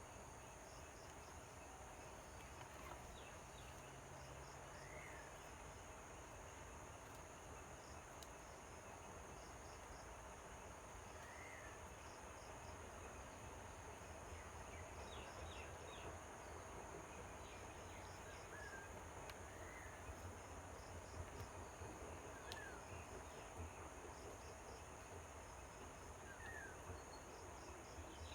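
Faint natural ambience: a steady high insect drone with short groups of rapid chirping pulses repeating every couple of seconds, and occasional single short bird calls every several seconds.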